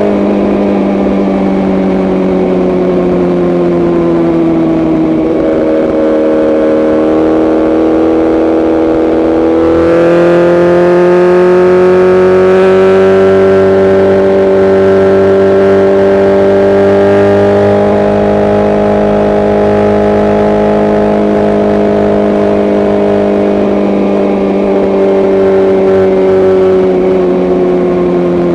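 BMW S1000RR inline-four engine and exhaust running under way at a steady pitch, with an aftermarket tune. It dips slightly about five seconds in, picks up revs sharply about ten seconds in and holds there, then eases off gradually near the end.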